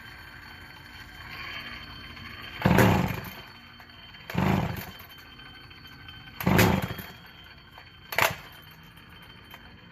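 Vintage McCulloch chainsaw's two-stroke engine revving up in four short bursts, roughly every two seconds. It wants to run but is not yet running right.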